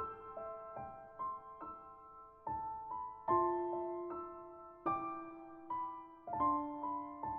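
Background music: soft piano playing slow, sustained chords and single notes, each struck and left to fade.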